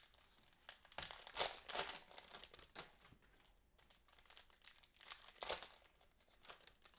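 Cellophane wrapper of a football trading-card cello pack crinkling as it is torn open and handled, in irregular rustles with the loudest bursts about a second in and again near five and a half seconds.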